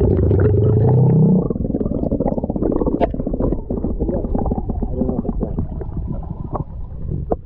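Muffled underwater sound from a GoPro Hero 8 Black held under the river surface: a low rumble of moving water with a rising tone over the first second or so, then dense crackling ticks.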